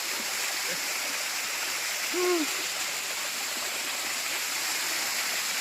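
Small forest waterfall, about two metres high, with water pouring steadily into its pool. A single short hooting call sounds briefly about two seconds in.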